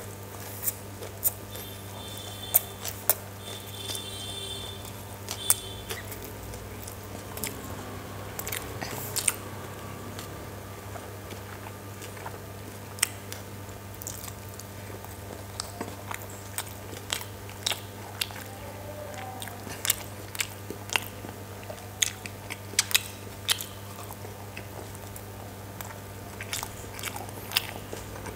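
Close-miked eating: chewing and biting chicken chowmein noodles and steamed chicken momos, with wet mouth clicks and smacks throughout. A steady low hum runs underneath.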